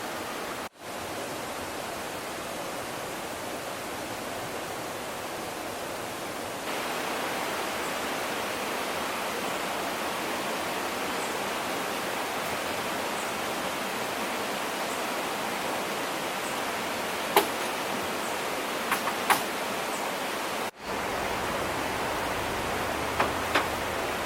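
Steady rushing noise, like running water or rain, with a few sharp snaps or crackles in the last few seconds.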